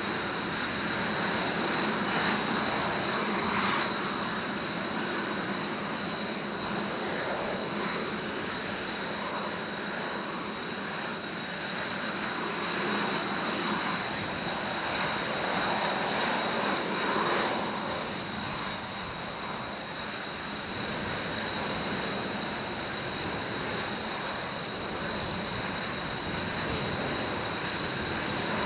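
Turbofan engines of Kawasaki T-4 jets running on the ground before takeoff, a steady high whine, under strong gusty wind noise on the microphone.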